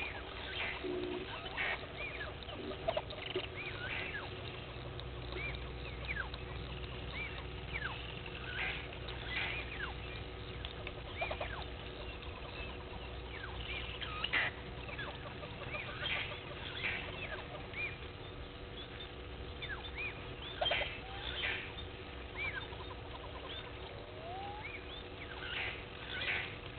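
Wild birds calling: short chirps and whistles, many falling in pitch, scattered through the whole stretch over a faint steady hum.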